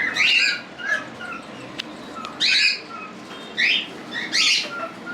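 Cockatiels squawking, harsh high calls repeated about once a second, each ending in a short falling note.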